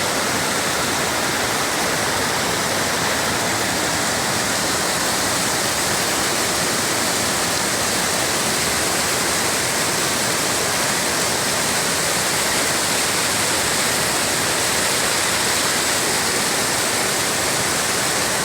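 Tall waterfall, about a 50 m drop, with its falling water making a steady, unbroken rush.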